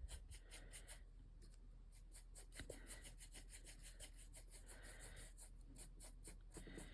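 Faint, quick, evenly repeated strokes of a paintbrush on a painted surface, about four or five a second.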